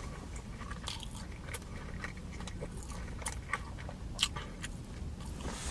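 Close-miked chewing of a crispy fried crab rangoon: scattered small crunches and wet mouth clicks, with a sharper crunch about four seconds in.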